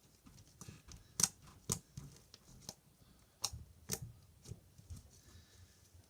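Fluffy shaving-cream slime being squished and stretched by hand, giving a series of sharp pops and clicks. The loudest come a little after a second in and again around three and a half to four seconds.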